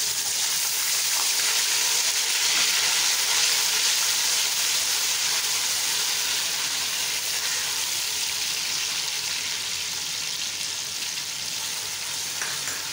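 Fresh garlic-ginger paste sizzling in hot cooking oil in a pressure cooker while it is stirred with a spatula. The sizzle is strongest a few seconds in and eases a little toward the end.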